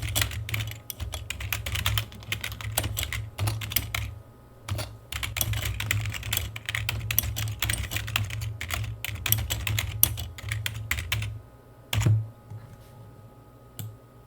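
Rapid typing on a computer keyboard, a dense run of keystroke clicks with a short pause about four seconds in. The typing stops after about eleven seconds, followed by one louder knock and a last faint click.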